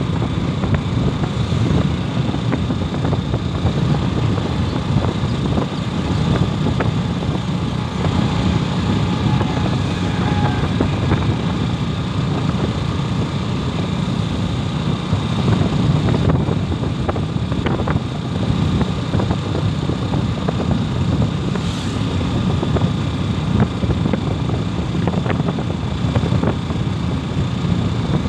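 Motorcycle being ridden, with steady engine and road noise.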